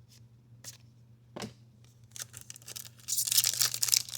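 Crinkly wrapper of a baseball card pack being handled and torn open: a few light clicks at first, then loud crackling and tearing from about three seconds in.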